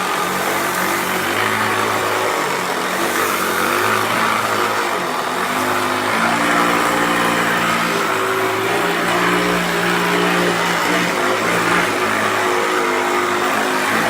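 Hoover Turbopower 2 Autosense upright vacuum cleaner with an 800-watt motor, running rough with a hum whose pitch shifts partway through. The owner suspects worn bearings in the brush roll.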